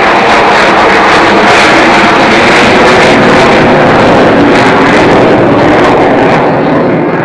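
Avro Vulcan XH558's four Rolls-Royce Olympus jet engines running loud and steady during a flying display; near the end the sound begins to fade and dull as the bomber moves away.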